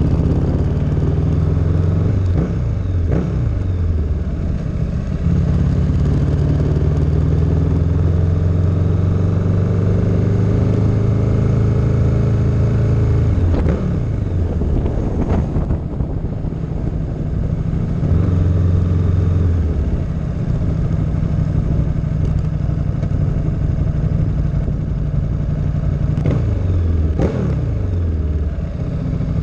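Car engine running at low speed under light throttle, heard from a camera mounted on the car, with its note dropping sharply a few times as the revs fall.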